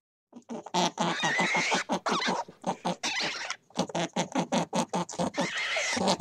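An animal's call made of many rapid, rasping pulses, broken by a short pause a little past halfway.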